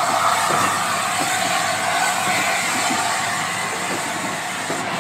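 Steam-hauled passenger train moving along a station platform: a steady rolling noise from the coaches.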